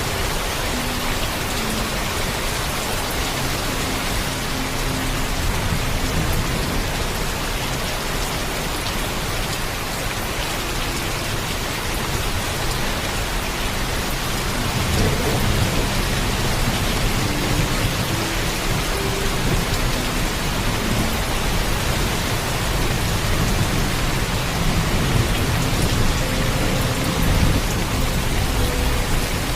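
Heavy, steady rain with low thunder rumbling. The thunder swells about halfway through and again near the end.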